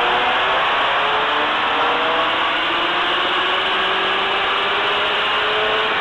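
Turbocharged Subaru WRX STI's flat-four engine under full load on a chassis dyno, its pitch climbing steadily as the revs rise through a pull.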